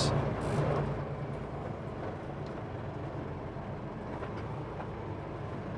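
Steady low drone of a semi-truck's diesel engine with road noise, heard inside the cab while driving.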